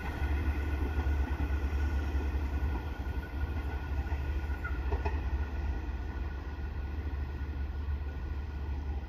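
A train running past: a steady low rumble with several faint, steady high tones over it.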